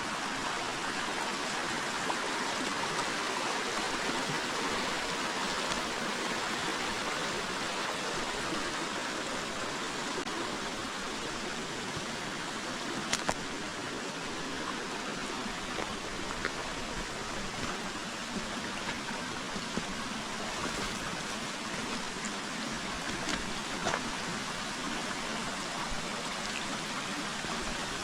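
River water flowing steadily, a continuous even rush, with a couple of faint clicks.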